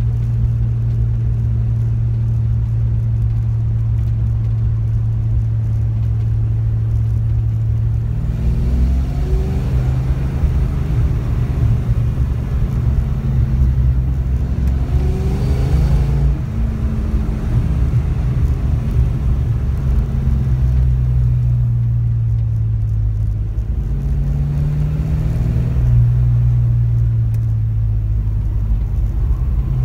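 Fox-body Ford Mustang's 5.0-litre V8 heard from inside the car: a steady low engine note for about the first eight seconds, then the pitch climbs in several stepped rises as the car accelerates and shifts up. It eases back for a few seconds, then rises again near the end.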